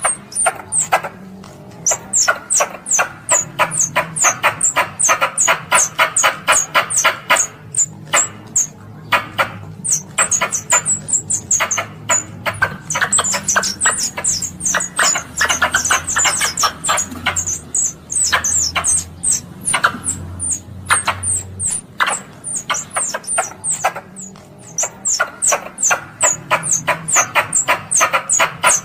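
Squirrel calling: rapid, sharp, high chirps repeated about four times a second in long chattering runs with short breaks, the kind of call used to lure other squirrels in.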